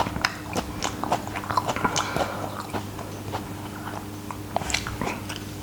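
Chewing raw radish: a run of crisp crunches, frequent at first and then thinning out.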